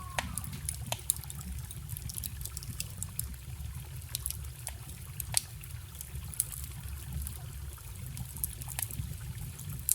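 Wood fire crackling with scattered sharp pops, over a steady trickling stream.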